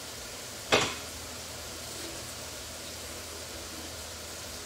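Potato wedges frying in a pan of oil, a steady sizzle, with one sharp knock about three quarters of a second in.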